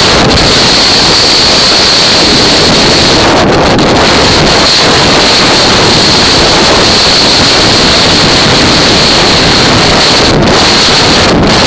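Loud, steady wind buffeting a camera microphone while riding a Kawasaki KFX ATV, an even rushing noise with a constant high hiss on top. No distinct engine note stands out.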